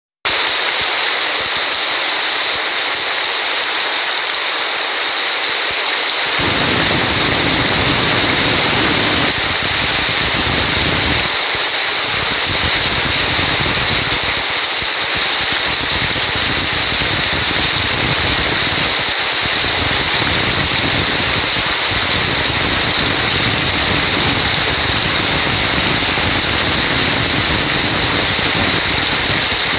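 Heavy rain falling steadily on foliage, a dense, even hiss. About six seconds in, a low rumble comes in underneath and carries on with brief dips.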